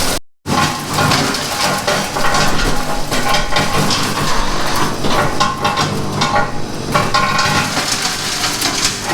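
CMA-W3 3-inch wood chipper running and shredding branches: a steady engine sound under dense crackling and cracking from the wood being chipped. The sound drops out for a split second just after the start.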